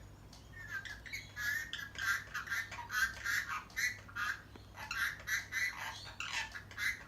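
Indian ringneck parrot talking: a long run of short, quick, high-pitched chattering syllables in its mimicking voice.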